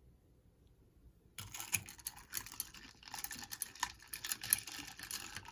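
Typing on a keyboard: quick, irregular key clicks that start about a second and a half in, after a near-silent opening.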